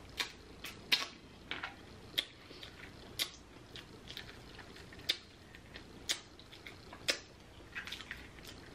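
Close-range eating sounds: chewing lobster meat and fingers picking it out of the cracked claw shell, a string of sharp wet clicks and smacks about once a second.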